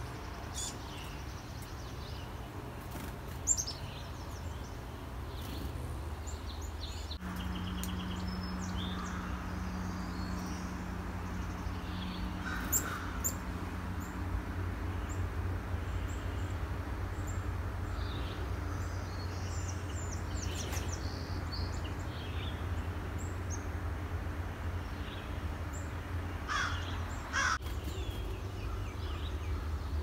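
Wild birds calling: scattered short high chirps, with a few louder, lower calls around the middle and near the end, over a steady low rumble.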